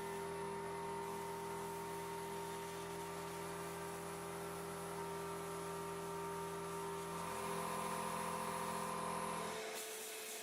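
A steady electric hum with a buzz, like a small electric motor running. It changes slightly in tone about seven seconds in, then cuts off abruptly near the end.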